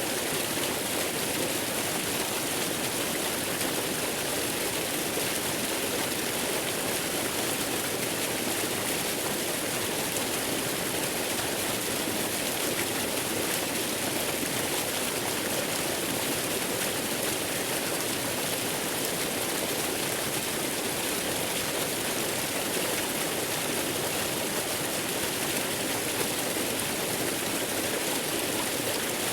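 Steady, unchanging rush of waterfall sound blended with white noise, hissy and even throughout.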